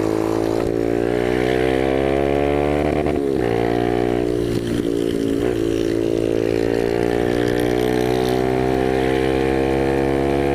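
Motorcycle engine running under way, its pitch climbing steadily, dropping sharply about three seconds in and again a couple of seconds later before climbing again, with road and wind noise underneath.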